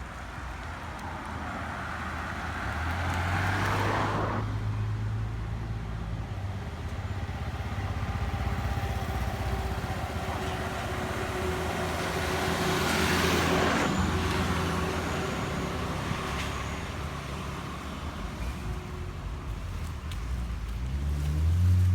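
A heavy-equipment engine running steadily at a low drone, revving up near the end. Two swells of rushing noise pass over it.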